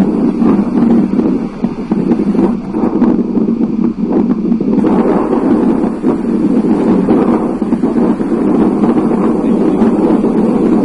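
Thunderstorm wind buffeting the microphone, a loud, steady rushing with no let-up.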